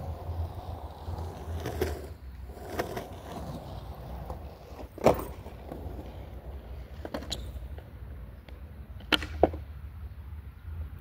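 Skateboard rolling with a steady low wheel rumble, broken by several sharp clacks of the board striking the ground: the loudest about five seconds in, and two in quick succession a little after nine seconds.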